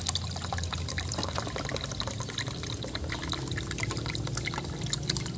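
Eating sounds: wet chewing and many small mouth clicks and smacks from people eating crispy fried chicken.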